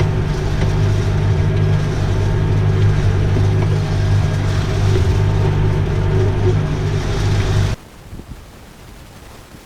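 Tractor engine running steadily at a constant speed with a deep hum. About eight seconds in, the sound cuts off suddenly to faint wind noise on the microphone.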